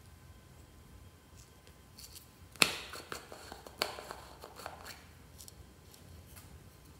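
Slime being worked by hand, making a few sharp clicks and pops. The loudest is about two and a half seconds in, a second follows a little over a second later, and smaller crackles come between them.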